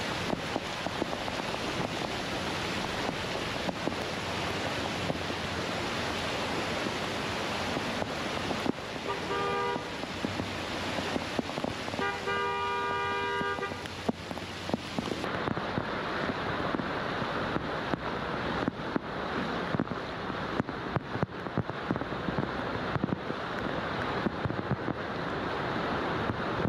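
Steady rushing noise with a car horn sounding twice around the middle, first briefly and then longer a couple of seconds later. Just past halfway the noise turns duller, losing its hiss.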